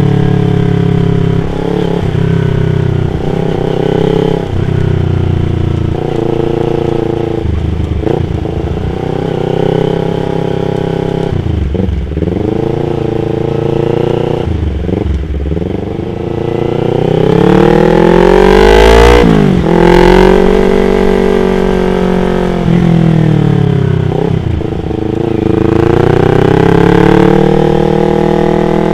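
Yamaha R25's parallel-twin engine being ridden, the revs climbing and dropping again and again as it goes through quick gear changes. About two-thirds through it makes a long climb to high revs, then falls away, and it revs up once more near the end.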